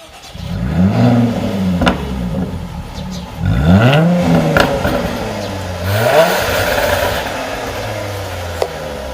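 Jaguar F-Type S's supercharged V6 revved in three blips, its pitch rising and falling back to a steady idle between them, with a few sharp pops from the exhaust.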